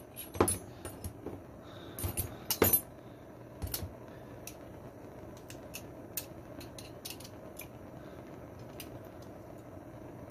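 Small metal parts and hand tools clinking and clattering as they are handled, with a few sharper clanks in the first four seconds and lighter ticks after.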